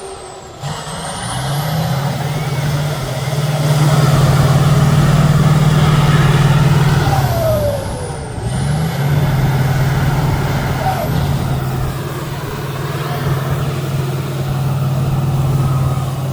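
A trial truck's diesel engine working under load off-road, revving up and holding, easing off about eight seconds in, then pulling again. A short falling whistle is heard about seven seconds in.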